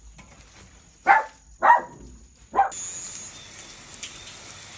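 A dog barking three times in short, loud barks, the last two spaced about a second apart.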